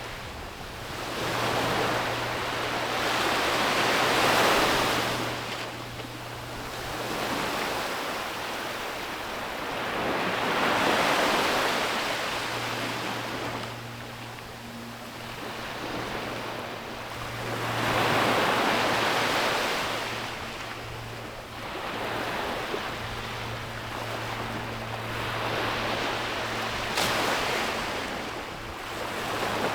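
Ocean waves breaking and washing up on a beach, each swell of surf building and fading about every seven seconds.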